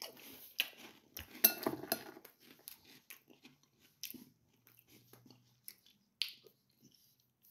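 A mouthful of Cinnamon Toast Crunch Loaded, cream-filled cinnamon cereal squares, being chewed: irregular crisp crunches, densest about a second and a half in, then thinning to occasional crackles.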